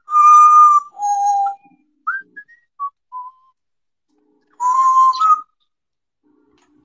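Parrot whistling: two long steady notes, the second lower, then a few short chirping notes, and another long whistle near the end that rises at its close.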